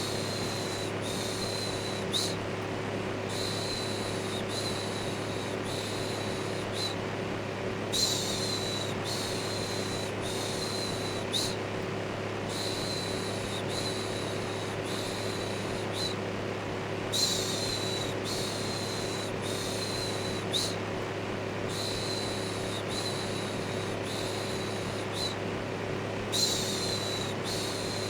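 Electric fan running steadily with a low hum, overlaid by a person's looped shushing: short 'shhh' sounds repeated in runs of several, each under a second, with a short pause between runs.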